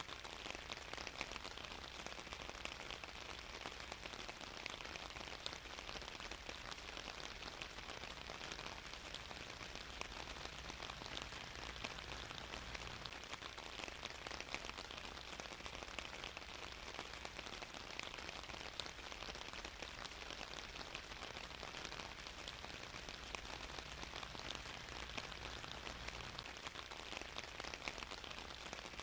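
Steady rain falling on a surface, a constant hiss dotted with many small drop ticks.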